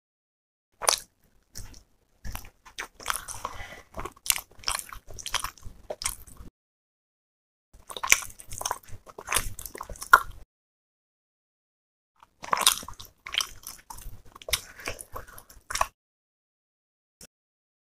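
Close-miked chewing and biting of roti with chicken masala curry, in three bouts of clicky, crunchy mouth sounds separated by silent pauses.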